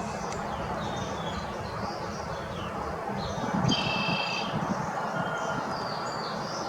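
Backyard songbirds chirping: scattered short high calls over a steady background hum, with one longer, louder call about three and a half seconds in.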